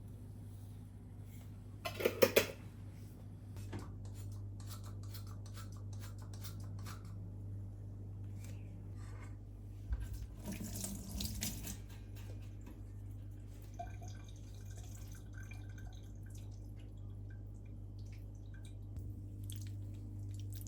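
Kitchen work with water: a brief clatter of knocks about two seconds in, then small clicks and taps, and a short rush of running water from a tap around the middle, over a steady low hum.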